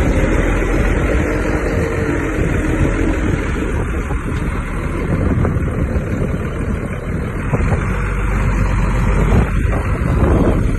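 Heavy diesel earthmoving machinery running steadily under load, deep and continuous.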